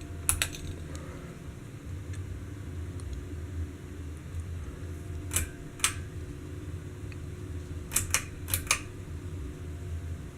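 Harbor Breeze Centreville ceiling fan running with a steady low hum. Several sharp clicks stand out over it: one near the start, two about five and a half seconds in, and two close pairs near the end.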